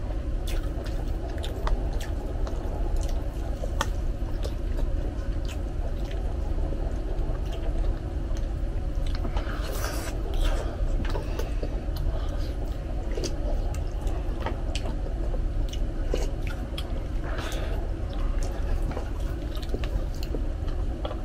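Close chewing and mouth noises of people eating boiled beef shank meat (bulalo), with many small scattered clicks and a couple of brief wet noises, over a steady low hum.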